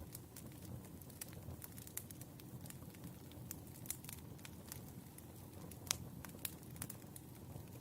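Firewood burning, with irregular crackles and pops over a low steady rumble of the flames; the sharpest pop comes about six seconds in.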